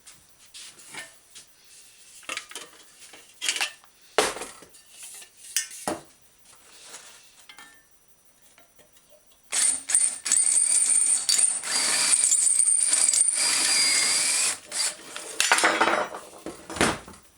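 Metal parts clinking and knocking as they are handled, then about halfway through an electric drill runs for about five seconds, drilling out a fender-stay rivet, its whine dipping as the bit bites, followed by a short second burst.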